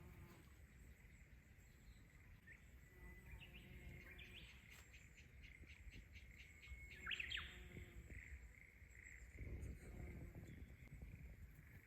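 Faint outdoor birdsong: a fast trill of rapid notes about four to six seconds in, and one sharp sweeping call about seven seconds in, over a thin steady high tone.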